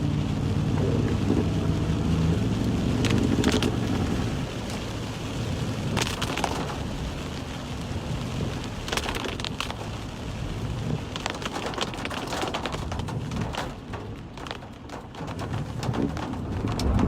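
Rain on a moving car, heard from inside the cabin, over the low hum of the engine and wet tyres. Scattered sharp taps and splashes come through it.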